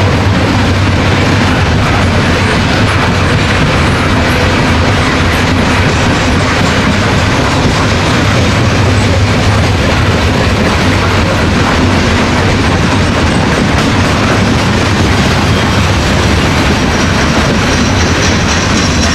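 Coal hoppers and gondolas of a freight train rolling past close by: a loud, steady rolling of steel wheels on rail.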